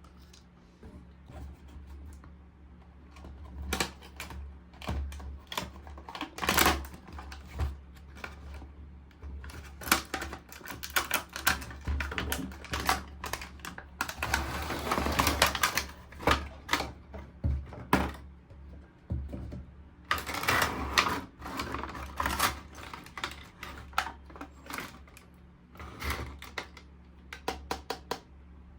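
Hands unboxing a toy: an irregular string of clicks and taps from cardboard and plastic parts, with longer rustling stretches about halfway through and again a little later.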